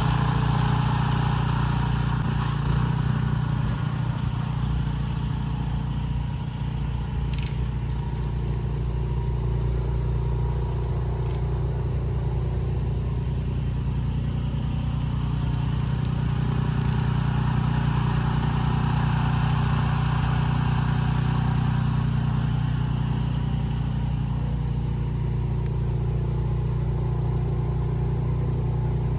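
Benchmark 30-inch 420cc tracked snowblower engine running steadily.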